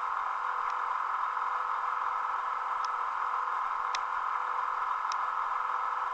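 Recorded caboose generator sound from a Soundtraxx soundcar, running steadily through the model's small speaker as an even, hiss-like drone. A few faint ticks come about three, four and five seconds in.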